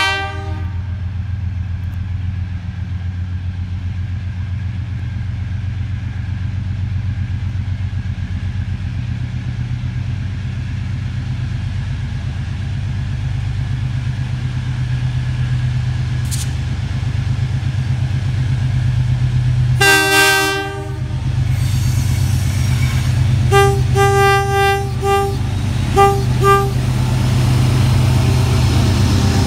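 Diesel locomotive hauling a long freight train of tank wagons, its engine drone growing steadily louder as it approaches and comes alongside. Its multi-tone air horn sounds briefly at the start, gives one long blast about 20 seconds in, then a run of about five short toots.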